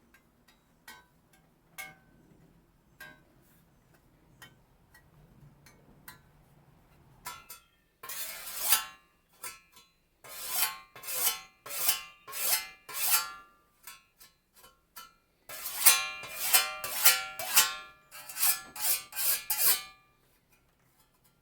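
Austrian scythe blade ringing under quick runs of metal-on-metal strokes, several a second, in two busy stretches after a few scattered light clicks.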